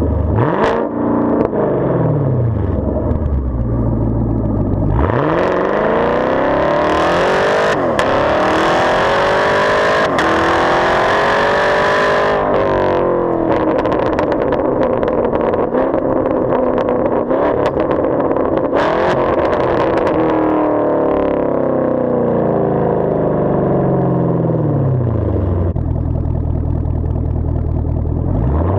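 A 2019 Camaro SS's 6.2-litre V8 through a muffler-deleted exhaust, revving up and down repeatedly. There is a long climb in engine speed starting about five seconds in that falls away around twelve seconds, a slower fall later on, and another rise near the end.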